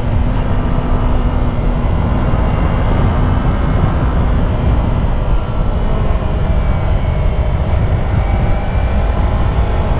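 Steady wind roar on a helmet microphone at highway speed, with the Yamaha YZF-R3's parallel-twin engine running at a steady cruise underneath as faint humming tones.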